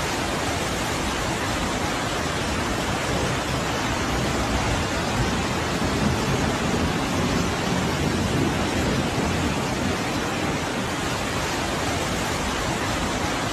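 Heavy rain in a storm, a steady, even rushing hiss that does not change.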